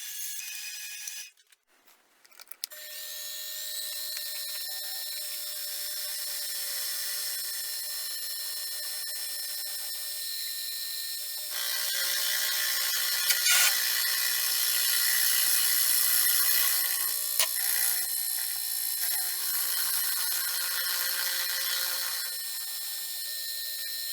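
Power tool running steadily and working a block of black walnut for the sword's handle. It gets louder for about ten seconds in the middle while it bites into the wood.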